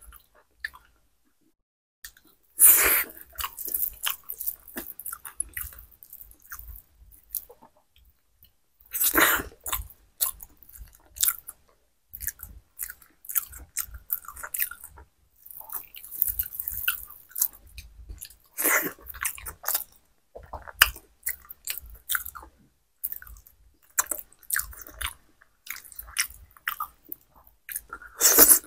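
Close-miked mouth sounds of a person eating khichuri with her hand: wet chewing with many small clicks. There are four louder bursts spaced several seconds apart, and a second or two of quiet just after the start.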